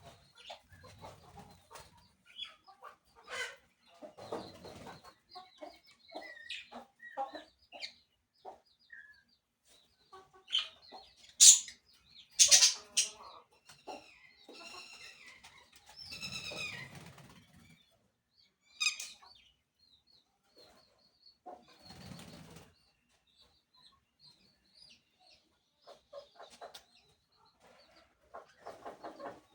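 Parakeets and chickens calling on and off: chirps and clucks, with a few bursts of wing flapping. The loudest part is a pair of sharp squawks near the middle, followed by a longer call.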